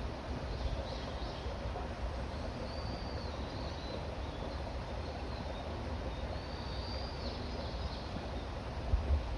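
Songbirds calling faintly, with short high arching whistled phrases every couple of seconds. Underneath runs a steady rushing background with a low rumble, and two low thumps come near the end.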